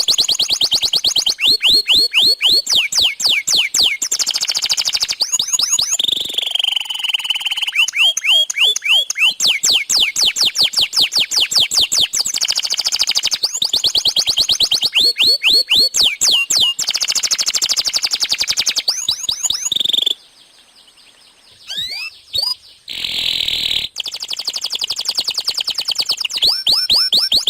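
Domestic canary singing a long, energetic song of rapid trills, each a fast run of repeated high chirps that changes speed and pitch from one phrase to the next. The song breaks off briefly about two-thirds of the way through, then carries on.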